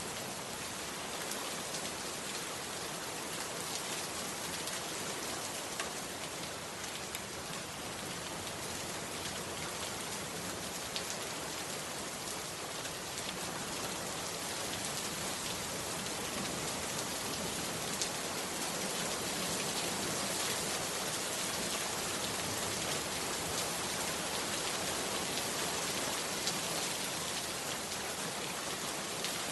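Heavy rain falling steadily: a dense, even hiss with scattered sharper ticks of individual drops striking, swelling slightly in the second half.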